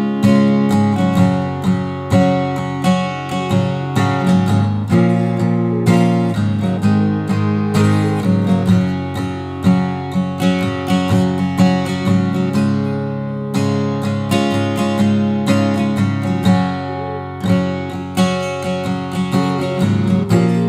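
Fender Redondo Player acoustic guitar playing a steady run of strummed chords, the strings ringing on between strokes.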